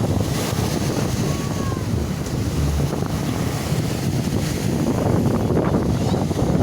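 Surf from a stormy sea washing onto the beach, with strong wind buffeting the microphone in a steady low rumble.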